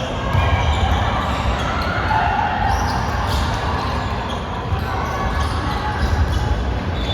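Basketball game on an indoor court: the ball bouncing as it is dribbled, with players calling out.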